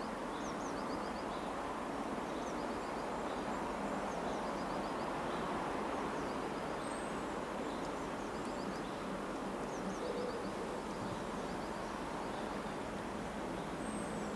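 Songbirds singing short, repeated trilled phrases every second or two, with an occasional high falling whistle, over a steady low background hum.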